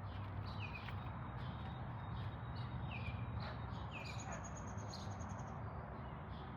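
Small bird repeating a short falling chirp about once a second, with a thin high trill for a second or so in the middle, over a steady low outdoor rumble.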